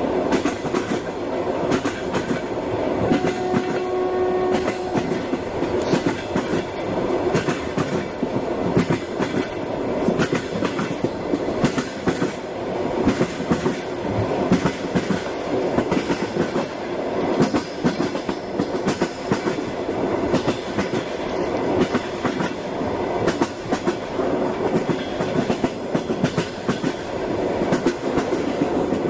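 A train running on rails, a continuous rattling noise dense with clicks. A brief steady tone sounds about three seconds in.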